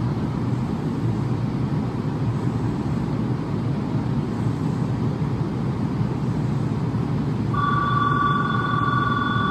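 Steady low rumble of a Hanshin 8000-series electric train standing at the platform; about seven and a half seconds in, an electronic station departure bell starts ringing steadily, signalling the train is about to leave.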